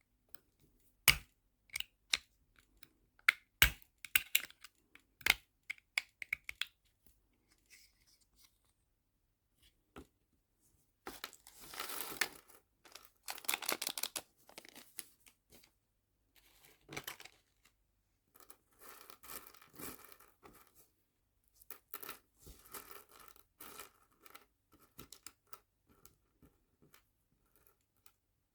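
Small hard nail charms and plastic storage boxes clicking and tapping as they are handled, then several stretches of crinkly rustling, like plastic packaging being opened and handled.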